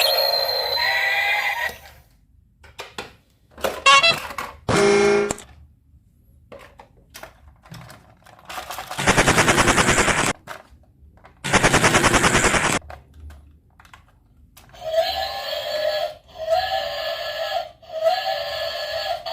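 Electronic sound effects: scattered clicks and short tones, then two rapid rattling bursts of about a second each, followed by a short tone figure repeated four times near the end.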